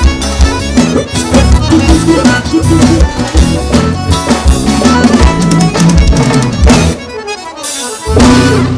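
Live forró band playing an instrumental passage: accordion over drum kit and bass with a steady beat. The band drops out briefly about seven seconds in, then comes back in with a hit.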